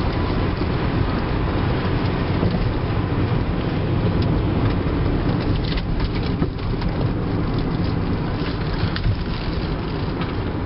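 Cabin noise of a 1997 Toyota Avalon driving along: steady low tyre and road rumble with a constant crackle of gravel under the tyres.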